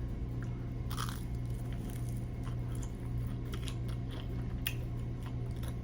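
Someone biting and chewing crispy fried chicken, with scattered soft crunches and clicks over a steady low hum.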